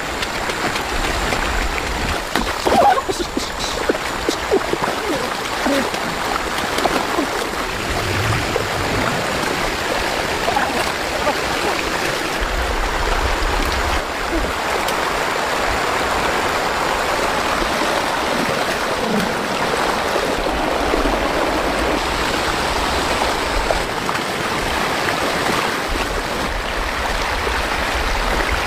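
Fast-flowing floodwater rushing steadily, briefly louder about three seconds in.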